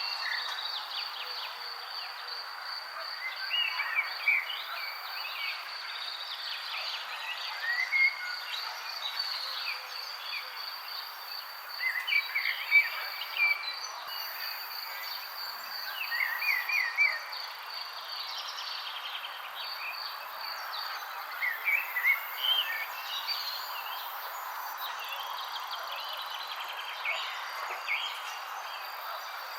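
Wild birds chirping in short bursts every few seconds over a steady high-pitched insect trill and a constant background hiss.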